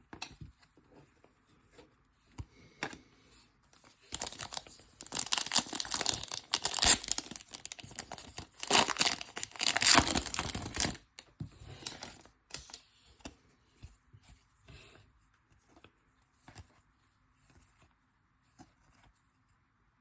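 Trading-card pack wrapper being torn open and crinkled, in two loud stretches of tearing between about four and eleven seconds in, followed by scattered light clicks and rustles as the cards are handled.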